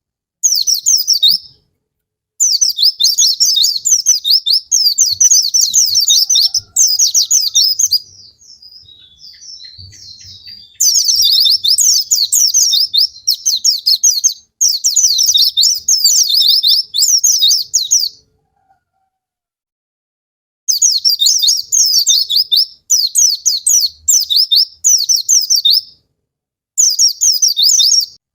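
White-eye (pleci) song: long phrases of rapid, high chattering twitters lasting several seconds each, cut by brief silent gaps. A quieter, sparser twittering stretch comes about a third of the way through. It is used as a lure song to stimulate caged white-eyes into singing.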